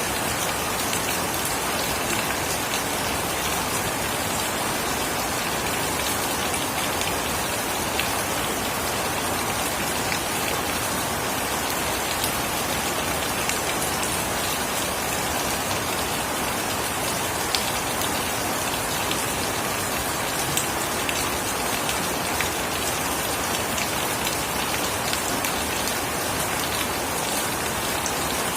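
Steady heavy rain falling, a dense even hiss with many individual drops pattering on surfaces close by.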